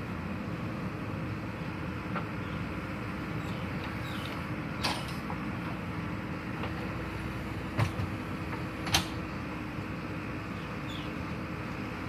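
Heavy vehicle engine running steadily with a constant drone, with a few short sharp knocks about five, eight and nine seconds in.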